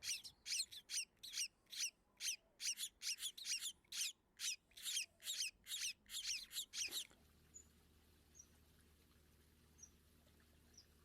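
A small finch calling in a rapid series of short, high chirps, about three a second, which stops abruptly about seven seconds in; after that only a few faint single chirps.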